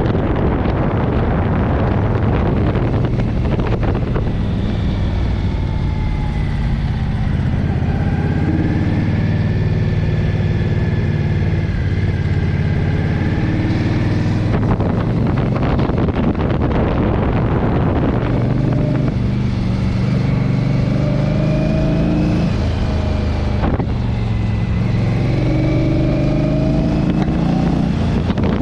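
Motorcycle engine running under way, its note drifting up and down with the throttle, under heavy wind noise on the microphone. The wind buffeting drowns the engine note in the first few seconds and again about halfway through.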